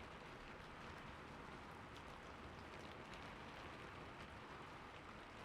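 Faint, steady rain: a soft hiss with scattered light drop ticks.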